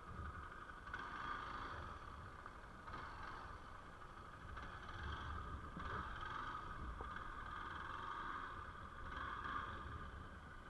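Faint Hero Xpulse 200 single-cylinder motorcycle engine running, its sound swelling and easing several times over a low rumble.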